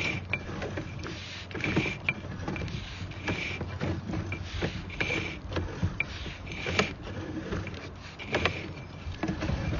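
Sewer inspection camera's push cable being pulled back through the pipe, with irregular clicks and rattles over a steady low hum.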